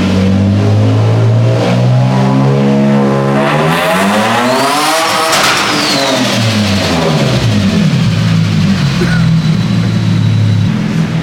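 Turbocharged Infiniti G35's V6 making a full-throttle dyno pull: it runs steady, then the revs climb quickly toward the 7,000 rpm rev limit about five seconds in, and fall away again after lift-off. A high whistle rises and falls with the revs.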